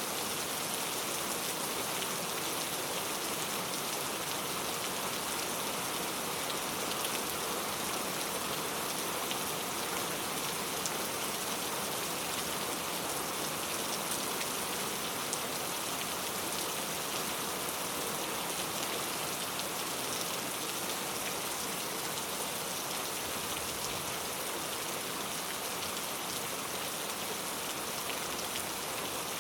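Steady rain falling, an even hiss of many drops with faint individual drop ticks, no let-up or change in strength.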